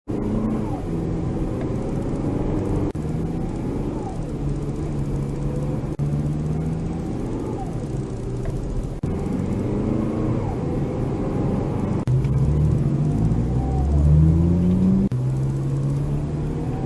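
Fourth-generation Toyota RAV4 on the move: engine and drivetrain running with a low drone that steps in pitch, and a fainter tone that rises and falls about every three seconds. This is its refurbished transmission, which the owner says makes a lot of whooshing noises.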